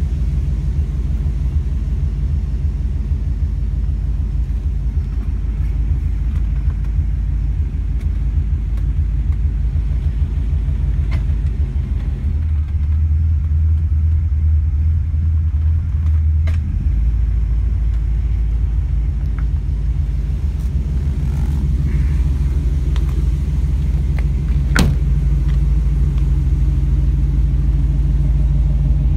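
GM 350 V8 of a 1951 GMC 3100 panel truck idling steadily with a low, even rumble. A few light clicks sound over it, and one sharper click comes late on.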